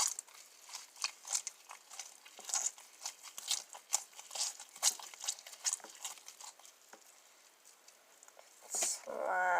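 Homemade slime being squished and pulled apart by hand, a run of irregular sticky, wet clicks and crackles that thins out about two-thirds of the way in. The slime has gone sticky and wet, and it tears after stretching only a little.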